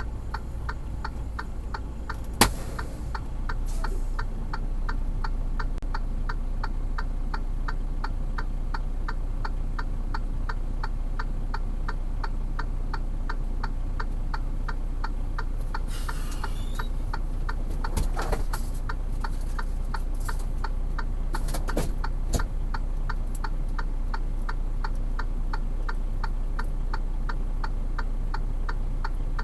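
A truck's hazard-light flasher ticking steadily and evenly inside the cab, a few ticks a second, over the low steady hum of the idling engine. There is one sharp click a couple of seconds in.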